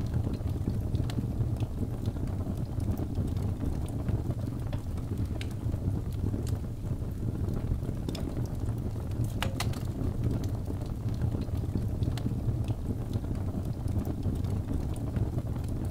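Wood fire burning in a fireplace: a steady low rumble of flames with scattered sharp crackles and pops, a few louder pops together about nine and a half seconds in.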